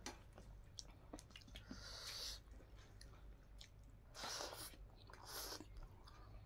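Quiet, close mouth sounds of eating rice and greens by hand: soft chewing with small clicks and a few short hissy smacking bursts.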